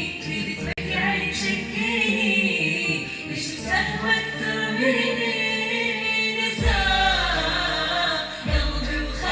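Singing with music, the voice moving through held, wavering notes with layered vocals. A deep bass comes in about two-thirds of the way through.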